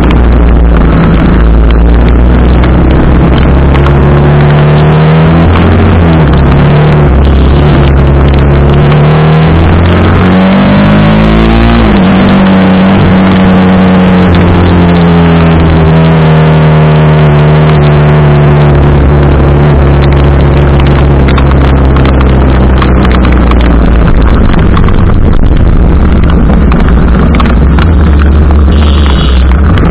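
TVS Apache RR 310's single-cylinder engine running loud while under way, its pitch climbing as it revs up around ten seconds in, then falling slowly over several seconds.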